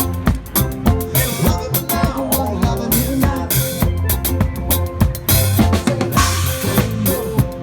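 Live band playing an instrumental passage of an island-style song, the drum kit prominent with a regular kick and snare beat over a steady bass line.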